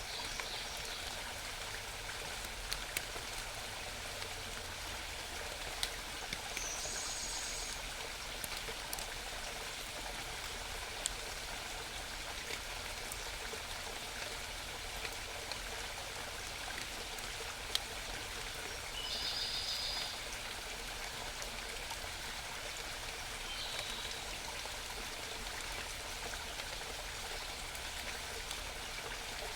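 Steady babbling of a small forest stream, with a songbird giving four short, high trills of rapid notes spread through it.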